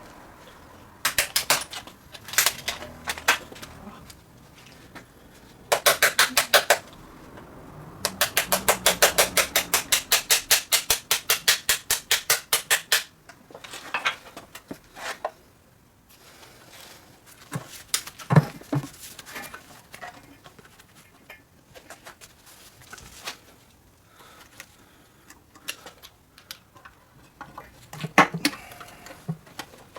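Ratchet wrench clicking in bursts, including one long even run of about seven clicks a second lasting around five seconds, with scattered metal clinks and knocks of tools and parts between.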